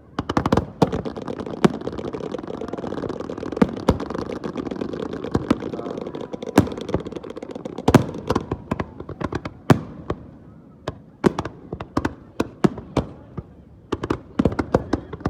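Fireworks going off: a dense run of bangs over continuous crackle for about the first half, then separate bangs at irregular intervals, coming in quick clusters near the end.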